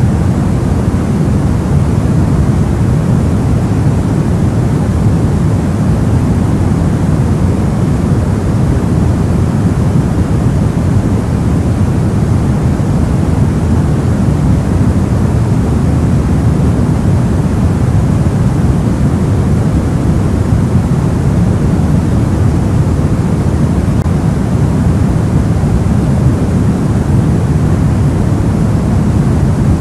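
Soft white noise: a steady, unbroken rush with a deep, muffled tone, much stronger in the bass than in the treble.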